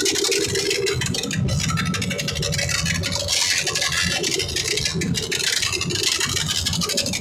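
Motorcycle engines revving through loud aftermarket exhausts, a continuous rapid rasping.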